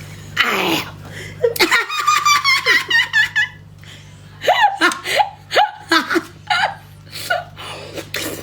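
Laughter in a rapid run of high-pitched bursts, then more scattered bursts of laughter.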